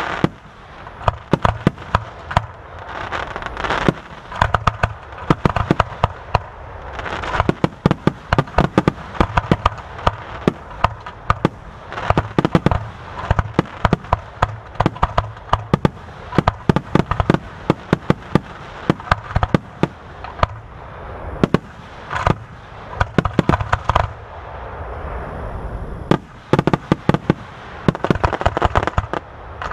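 Aerial fireworks display: rapid clusters of sharp bangs and booms, several a second, with crackling between the volleys.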